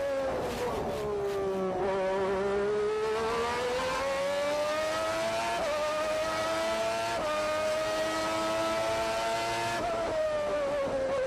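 McLaren MP4/4's Honda turbocharged V6 engine heard onboard: the revs drop over the first two seconds as the car slows, then climb steadily through the gears with two quick upshifts in the middle, and fall again near the end as the driver lifts off.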